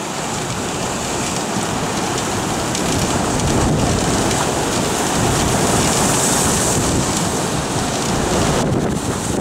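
Typhoon storm outdoors: strong wind buffeting the microphone over heavy surf breaking against a breakwater, a loud steady rush that swells in the middle.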